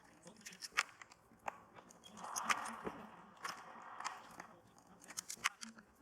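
Small, sharp clicks and taps of carburettor parts and tools being handled, with a hiss that lasts about two seconds in the middle.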